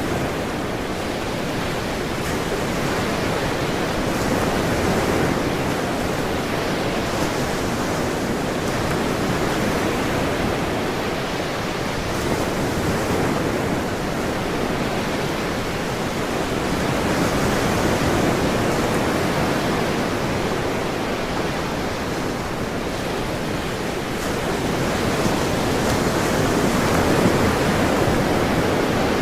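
Ocean surf: a continuous wash of breaking waves that slowly swells and eases a few times.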